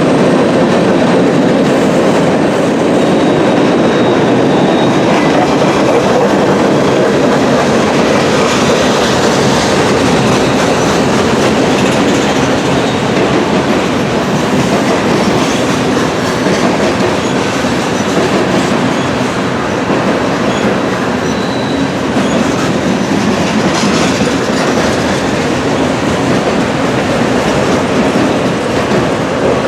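Norfolk Southern freight train's cars rolling past at steady speed: a continuous loud rumble, with wheels clacking over the rail joints.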